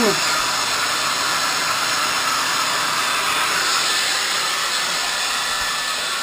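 Hair dryer running steadily with an even blowing hiss. A short rising squeak is heard right at the start.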